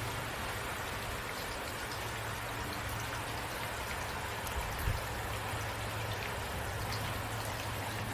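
Steady rain falling, an even hiss with scattered small drop ticks, over a steady low hum. A single soft low thump about five seconds in.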